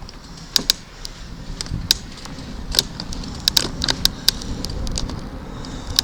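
Bicycle rolling along a towpath: a steady low rumble of tyres and moving air, broken by irregular sharp clicks and rattles.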